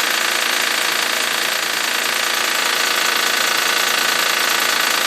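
2007 Honda Pilot's 3.5-litre V6 idling shortly after a cold start, with a steady high-pitched noise over the engine. The owner places the noise near the timing belt, and it goes away as the engine warms up.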